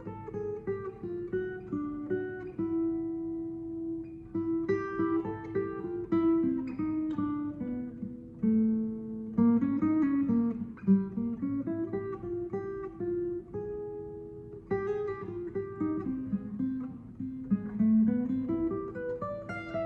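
Eastman E2OM steel-string acoustic guitar played solo, a melody line moving over plucked chords.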